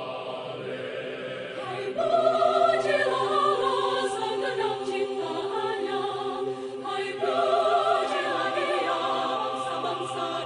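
Mixed choir singing without recognisable words, opening on a held chord. The voices swell louder about two seconds in, and moving parts enter over the sustained notes.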